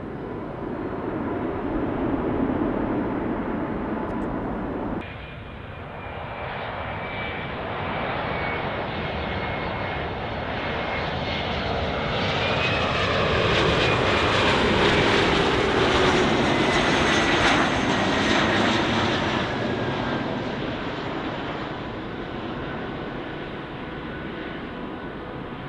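Bombardier CRJ-900LR regional jet's two rear-mounted turbofans, landing and passing close by. The jet noise builds to a peak about two-thirds of the way through, its whine falling in pitch as it goes past, then fades. Before that, a Boeing 737 MAX 8's jet noise cuts off abruptly about five seconds in.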